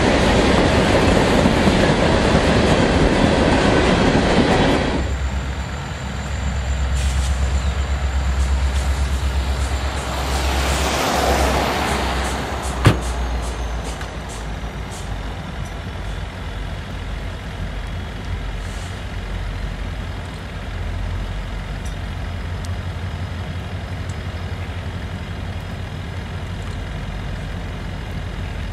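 Freight cars rolling past with loud wheel-on-rail noise, which stops abruptly about five seconds in. It is followed by the steady low rumble of approaching diesel freight locomotives, a CSX unit leading BNSF units, with a single sharp knock about halfway through.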